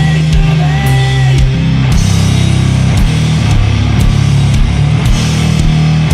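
Sludge metal: heavily distorted, down-tuned guitars and bass holding low chords, with drums striking about once a second.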